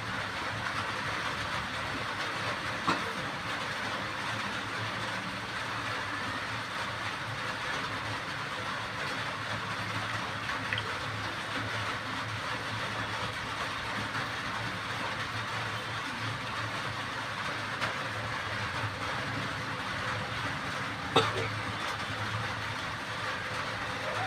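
Curry masala cooking in a pan on the stove: a steady sizzle, with two sharp clicks, one about three seconds in and one near the end.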